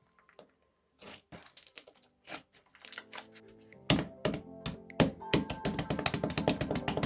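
Slime being squeezed and popped by hand, making a run of short sticky clicks and crackles that become rapid and louder about four seconds in, over background music.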